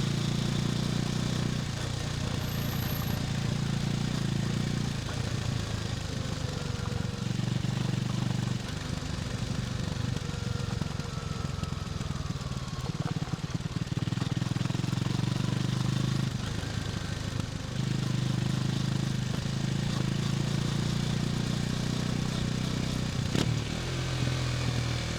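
KTM Duke 250's single-cylinder four-stroke engine running on the move, alternately pulling harder and easing off every few seconds.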